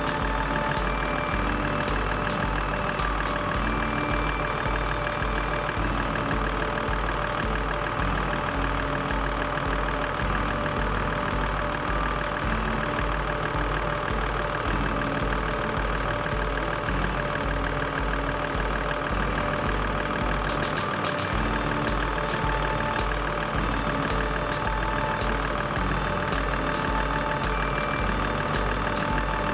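Toyota Land Cruiser 80 engine idling steadily, with a regular low pulse about twice a second.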